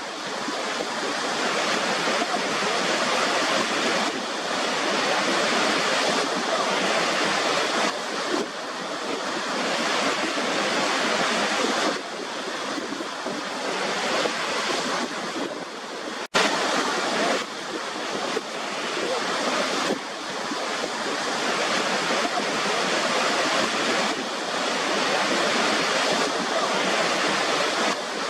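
Steady rushing of water falling in a waterfall, a dense even hiss with little bass that swells slightly every few seconds. It cuts out for an instant about sixteen seconds in.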